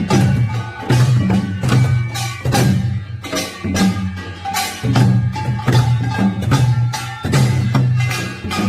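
Korean pungmul folk percussion, drums and gongs struck together in a fast, continuous rhythm of repeated strokes.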